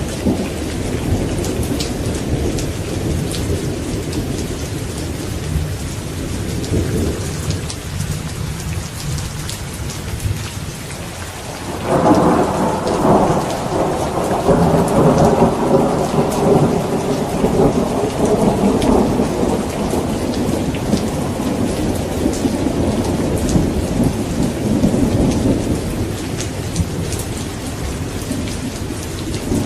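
Steady heavy rain with low rolling thunder. About twelve seconds in, a loud thunderclap breaks suddenly and rumbles on for several seconds before slowly fading back under the rain.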